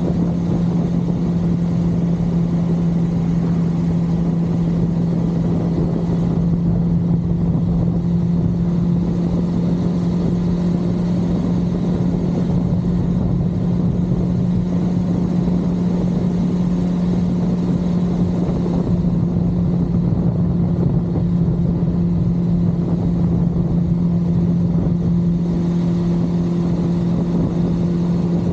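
1982 Suzuki GS550L's air-cooled inline-four engine running at a steady cruising speed, its pitch holding level, over a haze of wind and road noise.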